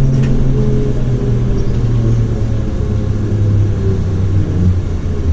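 ZiU-682 trolleybus running, heard from inside: its traction motor and drive hum falls steadily in pitch over a road rumble as the trolleybus slows down.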